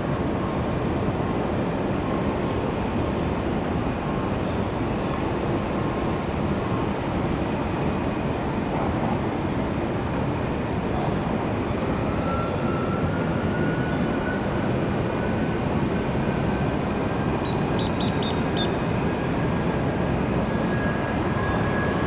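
United Boeing 757's twin jet engines at takeoff power during the takeoff roll: a steady jet roar, with a faint whine that slowly rises in pitch through the second half.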